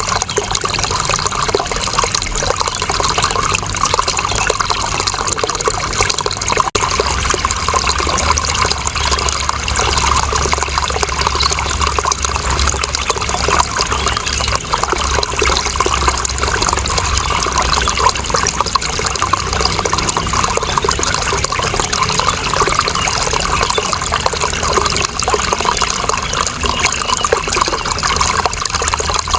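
Steady running water: a continuous, even rush and trickle with no pauses.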